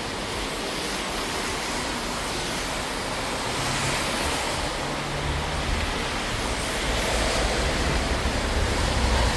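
Steady hiss of falling rain, with a low rumble joining about halfway through and growing a little louder.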